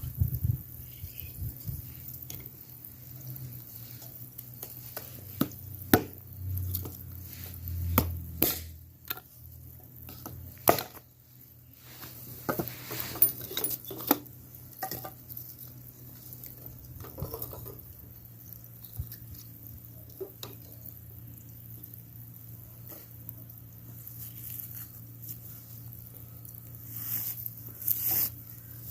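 Scattered clicks and knocks of things being handled, irregular and sharp, over a faint steady low hum.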